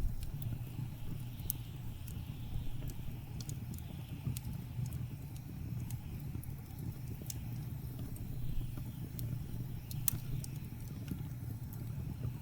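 Wood fire crackling, with sparse sharp pops scattered irregularly, over a steady low rumble and soft swelling gusts of blizzard wind.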